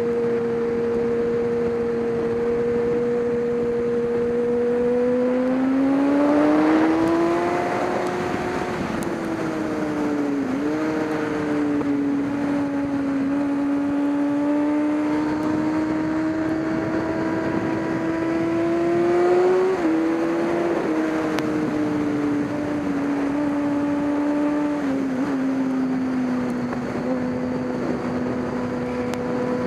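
Race car engine running under load, its pitch climbing about a fifth of the way in, then holding with a few brief dips where the throttle comes off or a gear changes, before settling lower near the end. A steady hiss runs underneath.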